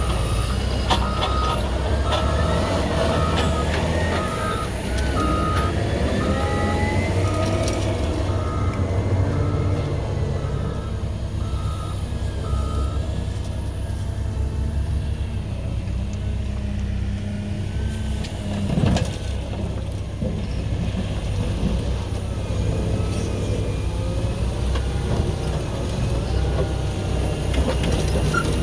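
Diesel engine of a CAT 120M2 motor grader running under load, with a reversing alarm beeping about once a second for roughly the first 13 seconds while it backs up. A single sharp knock comes about 19 seconds in.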